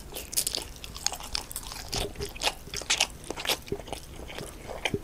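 Close-up chewing and biting, with crunchy crackles coming irregularly, several a second.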